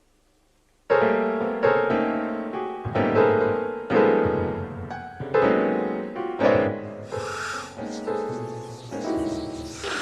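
Sad piano music: a slow tune of struck notes that starts about a second in.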